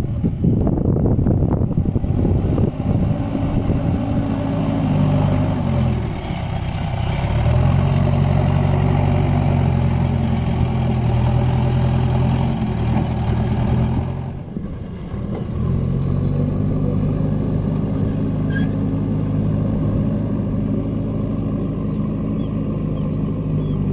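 Tractor diesel engine running steadily, its pitch dropping about five seconds in. Around fourteen seconds the note falls away briefly, then the engine picks up again and runs steadily.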